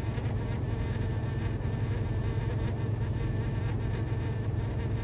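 Semi truck's diesel engine and road noise droning steadily at highway speed, heard from inside the cab.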